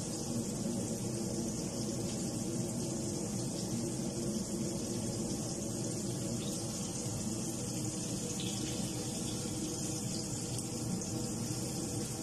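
Steady sizzle of flour-dredged pieces frying in oil in a wok.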